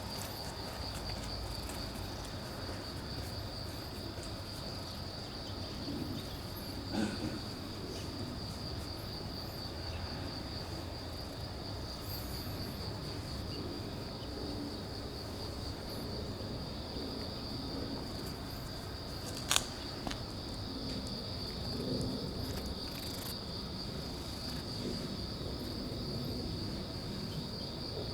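Insects trilling steadily in one continuous high pitch, with a single sharp click about two-thirds of the way through.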